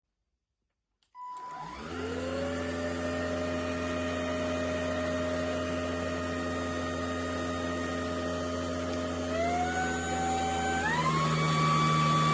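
ElecKeys K10 cordless stick vacuum's motor switching on about a second in, spinning up to a steady whine, then stepping up to a higher speed twice near the end.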